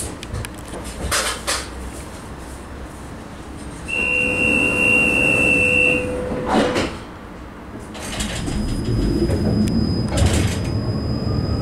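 Inside a Vityaz-M tram at a stop: a steady electronic warning tone sounds for about two seconds, the doors close with a knock, and after a short lull the tram pulls away, its low running rumble growing under a thin high whine and a faint rising pitch from the traction drive.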